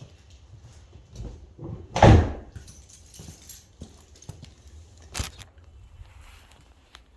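Cammed C5 Corvette V8 idling low with a choppy cam lope. There is a loud thump about two seconds in and a sharp click around five seconds.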